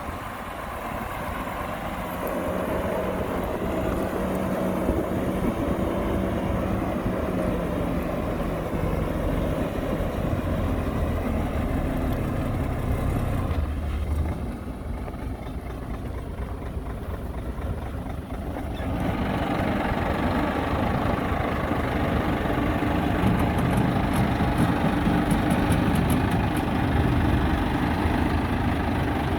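Heavy diesel engines of earth-moving machines (dump trucks and a bulldozer) running steadily. The sound drops for a few seconds about 14 seconds in and comes back louder about 19 seconds in.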